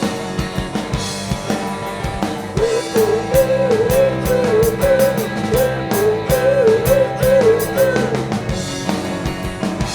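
Live rock band playing a passage between vocal lines: drum kit hits and guitar, with a wavering melody line from a few seconds in until near the end.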